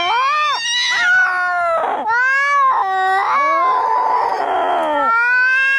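Cats fighting: long drawn-out yowls that rise and fall in pitch, at times two voices overlapping, with a harsh noisy stretch about four seconds in.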